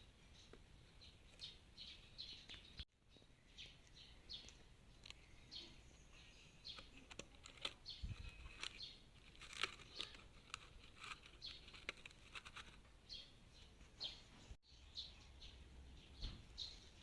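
Faint birds chirping: many short, high chirps over near silence. The sound cuts out completely for a moment twice.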